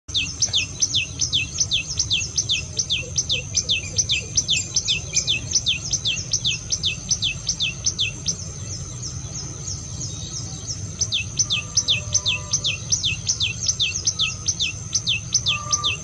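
Common tailorbird singing: a fast, even series of sharp downward-sliding notes, about three a second, that stops after about eight seconds and starts again some three seconds later. A steady high-pitched hum runs beneath.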